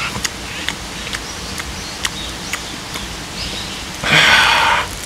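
Close-miked chewing of grilled beef: scattered wet mouth clicks and smacks over the steady rush of a nearby stream, with one loud breathy rush lasting almost a second about four seconds in.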